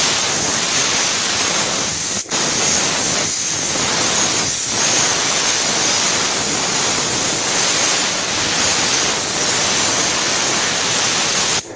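Steam cleaner's nozzle hissing steadily as it blasts steam over a motorcycle, with a brief break about two seconds in and a sudden stop near the end.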